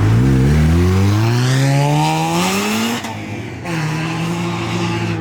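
A modified car engine revving hard under acceleration, climbing steadily in pitch for about three seconds with tires squealing near the top. It then cuts off abruptly about three seconds in and settles into a steady drone.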